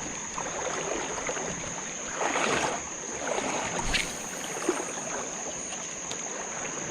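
Creek water sloshing and running, with a steady high-pitched insect drone over it. A louder swishing splash comes about two seconds in, and a sharp click just before four seconds.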